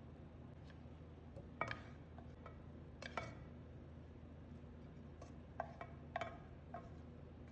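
A metal cooking utensil clinking against a pan as food is stirred: about five light, scattered strikes with a brief ring, over a faint steady hum.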